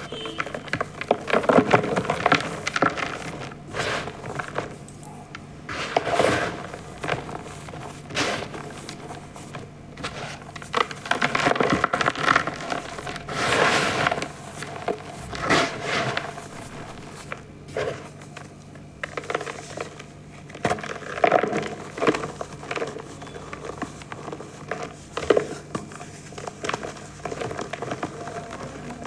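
Over-dried reformed gym chalk blocks being crushed and crumbled: irregular bursts of dry, crackly crunching with powdery crumbling between them. A faint steady low hum runs underneath.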